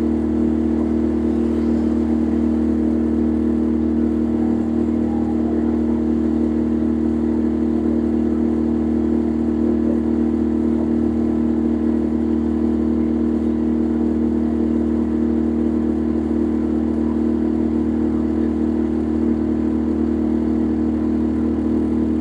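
Boat engine running steadily at constant speed, a drone with a steady low hum that neither rises nor falls.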